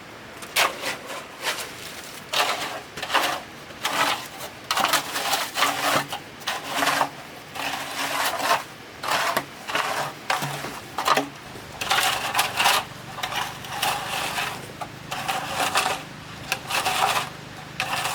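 Shovel scraping and turning a dry mix of sand and cement by hand, gritty scraping strokes at an uneven pace of about one a second.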